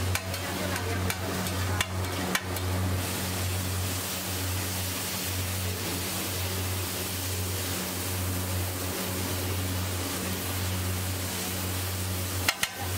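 Egg mixture sizzling on a large flat griddle (tawa) over a steady low hum, with a metal spatula clacking and scraping on the griddle a few times in the first couple of seconds and again near the end.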